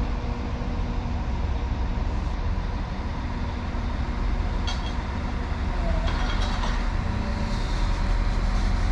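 Steady low rumble and hum of a diesel train's engine running, with a few faint clicks about five and six seconds in.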